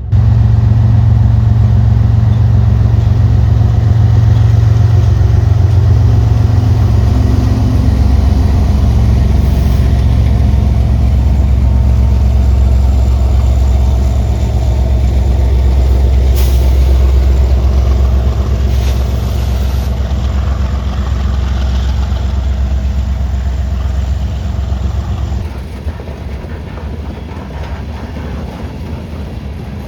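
Freight train led by an EMD SD70ACe diesel locomotive passing close, its engine drone loud and steady. Near the end the engine sound drops off, leaving the quieter rumble of the train rolling by.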